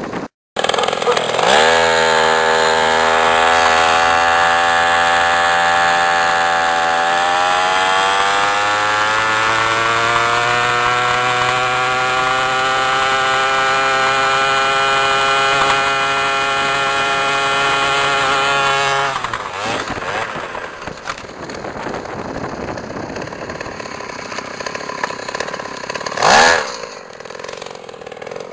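Mini bike engine at full throttle on a top-speed run: its pitch climbs in two stages, then holds high until the throttle is cut about 19 seconds in, when it falls to a lower, rougher note. A short loud burst comes near the end.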